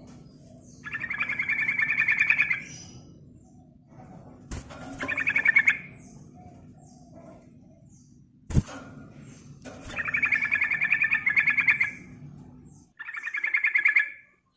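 Yellow-vented bulbul (trucukan) singing in four loud, fast rattling phrases, each one to two seconds long, with pauses between them. Two sharp clicks come in between the phrases.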